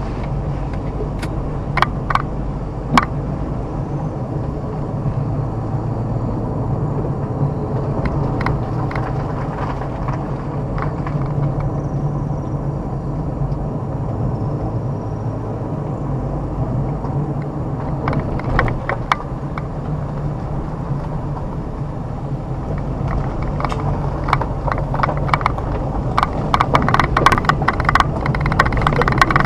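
A car driving along a rough forest road: a steady low engine and road hum, with scattered knocks and clatters from the road surface, thickest near the end.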